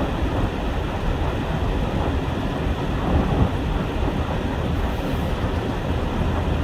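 Steady drone of a truck on the move, heard from inside the cab: engine hum and tyre noise on a snow-covered road.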